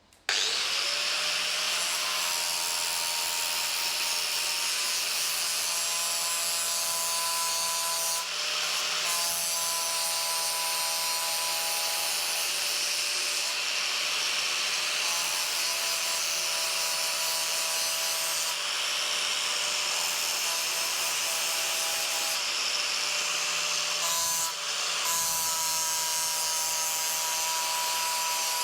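Power grinder spinning up and grinding steadily against a rusty steel exhaust clamp to clean it back to bare metal, with a steady whine and two brief lifts off the work.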